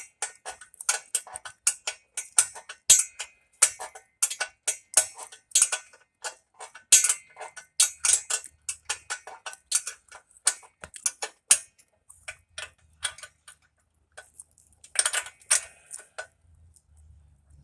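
Hand ratchet wrench clicking in quick strokes as it turns an exhaust bolt, then a pause and a short last run of clicks near the end.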